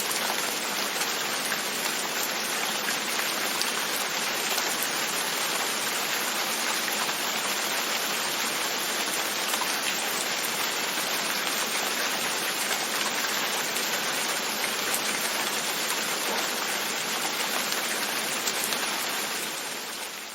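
Steady rain with drops pattering on a window pane, fading out near the end.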